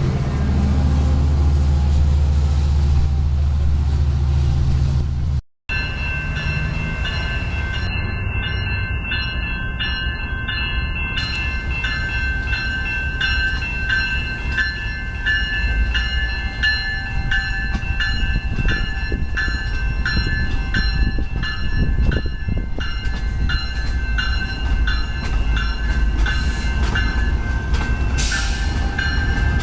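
A commuter train passing at close range. A deep steady locomotive rumble breaks off about five seconds in. Then come rail cars rolling by, with regular clicks of wheels over rail joints and a steady high ringing whine from the wheels and rails.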